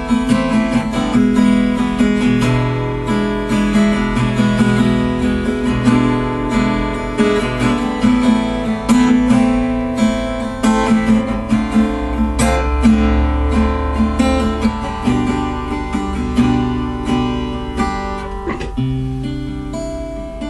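Acoustic guitar strumming chords in an instrumental passage of a song, no singing.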